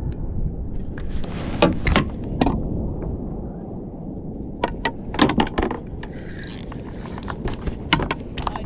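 Scattered sharp clicks, knocks and rattles in clusters, from gear being handled on a kayak while a fish is brought alongside, over steady wind and water noise.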